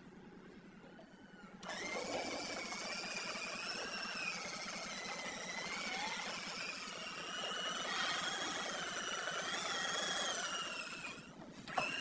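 A small electric motor whining steadily, its pitch wavering up and down as its speed changes. It starts about a second and a half in, and near the end it cuts out briefly before starting again with a click.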